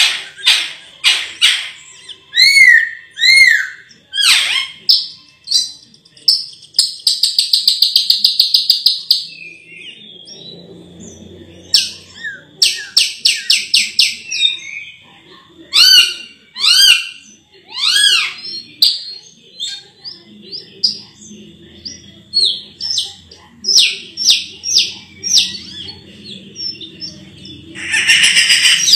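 A raja perling (Sulawesi myna) singing loudly: a long run of sharp, ringing whistles that sweep up and down in pitch, with a fast, even trill about seven seconds in and another burst near the end.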